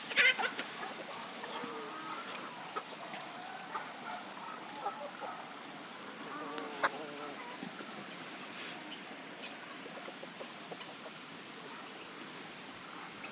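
Poultry clucking and calling in short, scattered notes over a steady hiss, with a few sharp clicks near the start.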